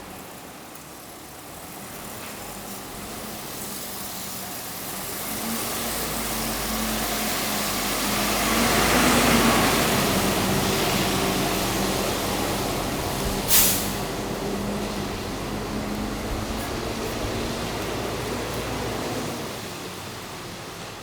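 A heavy vehicle such as a bus or truck running close by, its engine note swelling as it nears and fading near the end, with a short air-brake hiss about two thirds of the way through.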